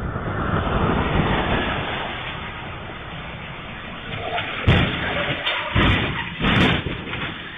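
Steady rushing road noise, then three heavy thuds about a second apart in the second half, as in a car crash.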